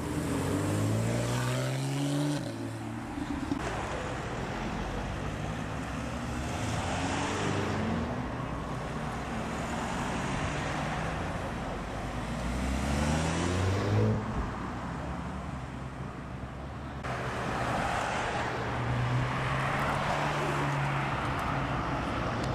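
Sports car engines accelerating past, their notes rising in pitch in the first few seconds and again about twelve seconds in, with a steadier engine note near the end over continuous road noise.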